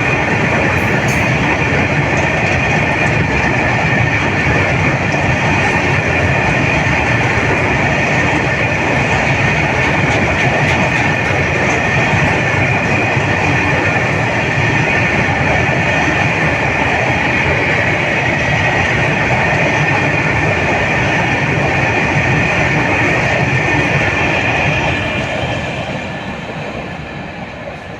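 A long goods train's wagons rolling past at speed: steady wheel-on-rail noise with clickety-clack over the rail joints and a high ringing tone from the wheels. It fades away over the last few seconds as the end of the train passes.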